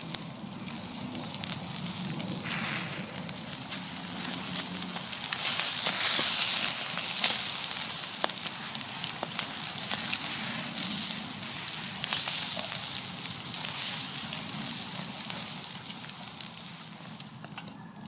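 Wood campfire crackling with sharp pops, over a steady hiss of steak sizzling on the coals; the hiss swells for a couple of seconds around six seconds in.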